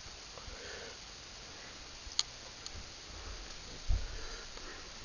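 Quiet handling noises: a sharp click about two seconds in and a low thump near four seconds, over a faint steady hiss.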